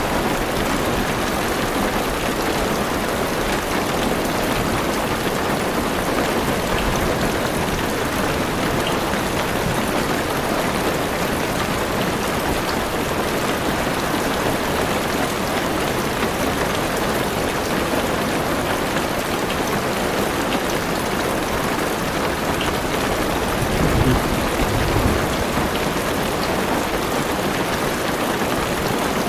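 Steady heavy rain on a car's roof and windows, heard from inside the car. Near the end, a brief low rumble of thunder swells under the rain.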